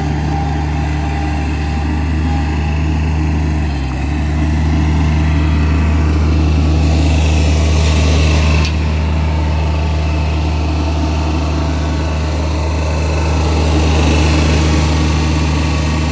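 Diesel engine of a Bobcat MT100 mini track loader running steadily. It dips briefly about four seconds in, gets a little louder, then drops off suddenly a little past halfway.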